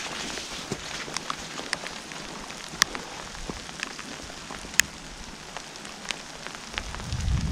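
Steady rain with scattered single drops striking a nearby surface as sharp clicks. A low rumble swells near the end.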